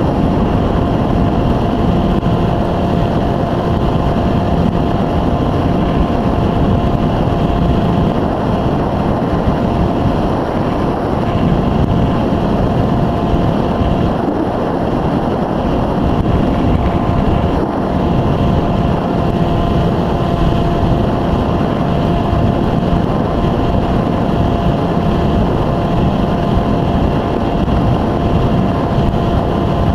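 Electric motor of an Easystar 2 RC model plane running at steady speed with a constant whine, under heavy wind rush on the microphone.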